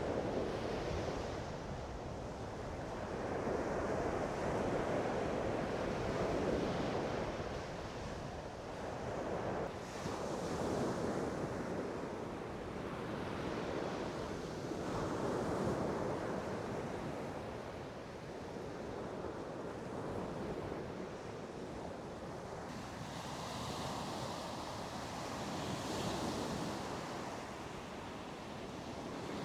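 Sea waves breaking and washing ashore, swelling and falling back about every five seconds, with wind buffeting the microphone.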